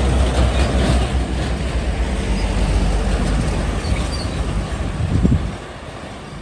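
Heavy diesel truck passing close by: a low engine rumble with tyre and road noise that drops away about five and a half seconds in as the truck moves off.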